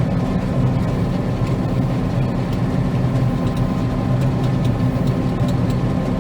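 Combine harvester running steadily, heard from inside the cab: an even engine drone with a constant low hum and a fainter higher tone.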